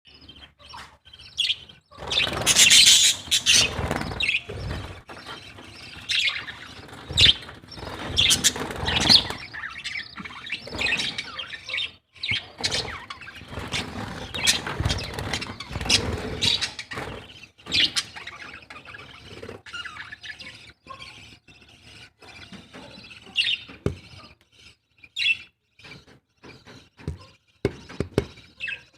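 Birds chirping and calling in quick, irregular bursts, loudest a couple of seconds in and growing sparser toward the end.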